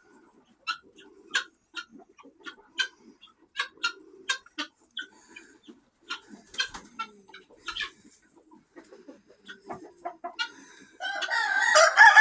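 Chickens clucking in short, scattered calls, then a rooster starts crowing about a second before the end, loud and holding one long note.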